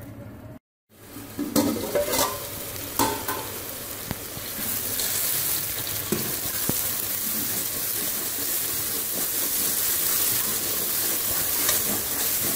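Chicken, tomato and onion masala frying in oil in an aluminium pot while a metal spoon stirs it: a few spoon clinks against the pot in the first seconds, then a steady sizzle as the masala fries down.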